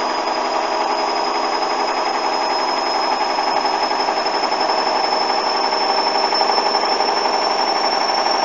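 Hoover washing machine spinning a balanced load at speed: a steady high motor whine that slowly climbs in pitch as the drum speeds up, over the dense hum and rush of the spinning drum.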